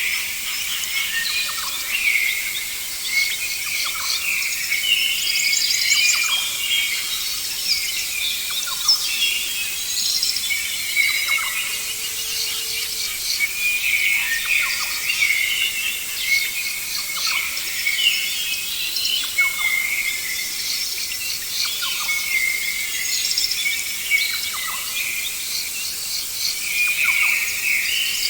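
A dense chorus of rainforest birds calling, with many short chirps and whistles overlapping all the way through.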